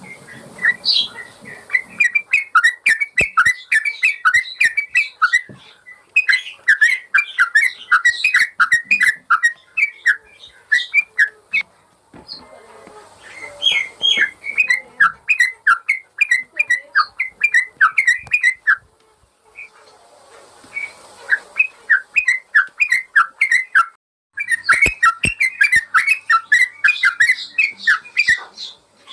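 Yellow-vented bulbul (trucukan) singing: long runs of fast, short chirps, several phrases broken by brief pauses, in the rapid continuous 'ropel' style used as a masteran tutor song for cage birds.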